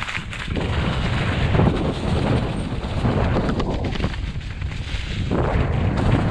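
Wind buffeting the microphone: loud, uneven low rumble that swells and dips, with no speech.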